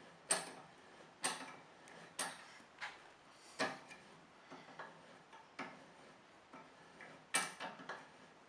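Motorcycle scissor lift stand being wound up: a sharp click roughly once a second, each with a short ring, as the lift is cranked higher.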